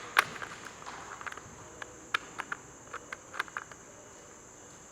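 Short sharp clicks and taps as the broken pieces of a soap mould are fitted back together and checked for fit, the loudest about a quarter second in and lighter ones scattered over the next few seconds. A steady high-pitched drone continues behind them.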